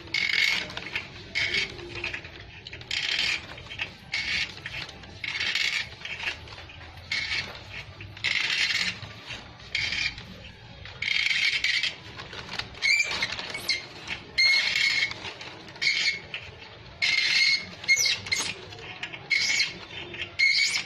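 Repeated hand-tool strokes scraping on metal, about one stroke a second, each stroke carrying a thin squeak: work on the chain guide's stripped threads.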